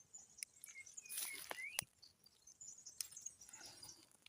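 Faint bird chirps, short calls that glide in pitch, with a few small sharp clicks and taps close by.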